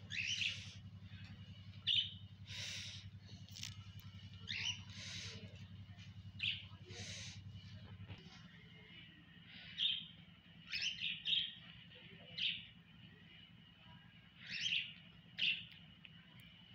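Small birds chirping in short, scattered calls, over a faint steady high tone. A low hum underneath stops about halfway through.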